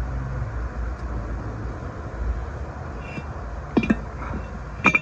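Steady low rumble, then two sharp metallic clinks with a brief ring near the end, about a second apart, as metal parts and tools are handled during rear hub bearing work.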